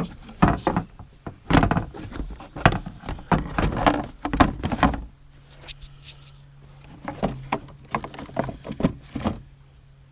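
Plastic engine air-filter housing and a new air filter being pushed and worked into place by hand: a busy run of plastic knocks, clicks and scrapes for about five seconds, then a few more scattered knocks.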